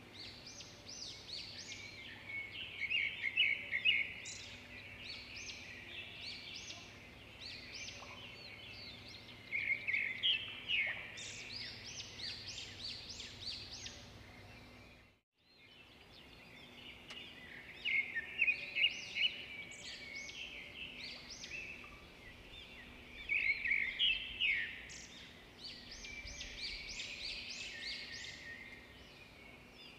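Birds chirping and trilling in bursts every few seconds, over a faint steady hum. The sound cuts out completely for a moment about halfway through, then the chirping resumes.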